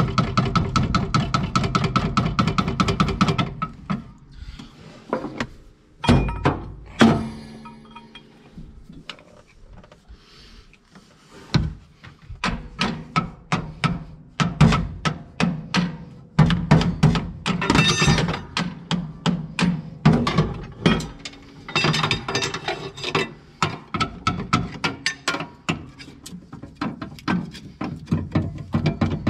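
Background music over repeated knocks and clinks of tools on metal, from working pins out of a tractor's gear-shift housing.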